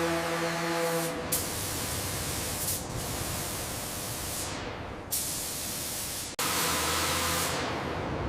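Loud, steady hiss of spray, broken off sharply several times, with a steady droning hum at the start and again from about six and a half seconds in.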